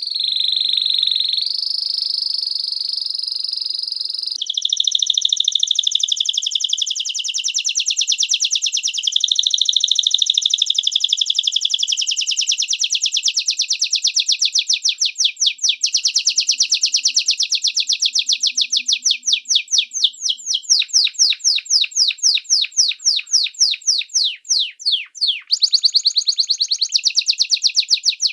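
A small songbird singing: a held high whistle, then a long fast trill of high chirps that loosens into separate quick notes about twenty seconds in.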